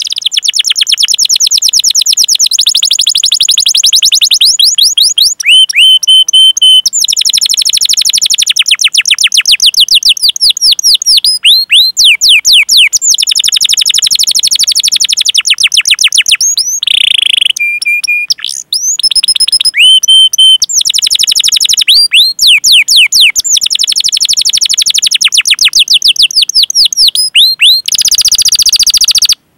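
Domestic canary in full song: long rolling trills of rapid repeated chirps, broken now and then by short held whistles, before the sound cuts off near the end.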